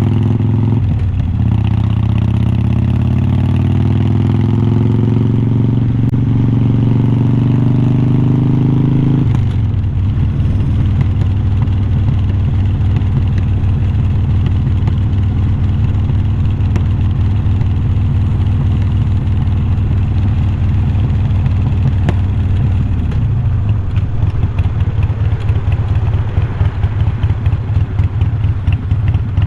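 Harley-Davidson Iron 1200's air-cooled V-twin through unbranded glass-pack-style slip-on mufflers. After a brief break about a second in, the engine pulls with steadily rising pitch until about nine seconds, then falls suddenly to a lower, uneven beat and drops lower again near the end.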